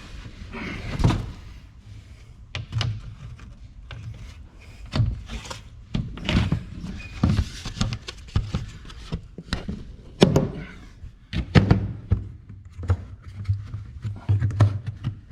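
Irregular knocks and thunks, some sharp and some dull, as batteries and gear are shifted and bumped around inside an aluminum boat.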